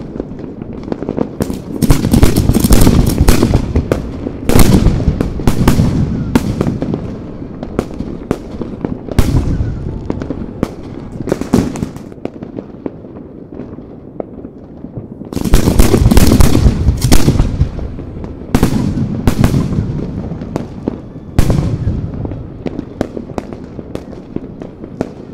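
Fireworks: aerial shells fired from mortar tubes and bursting, among many sharp bangs and crackles. The bangs come thickest in two loud volleys, about two seconds in and again about sixteen seconds in, with scattered single reports between.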